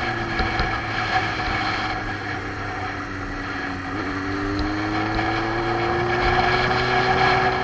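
Motorcycle engine running at road speed: its note sags slightly, then from about four seconds in climbs steadily as the bike accelerates.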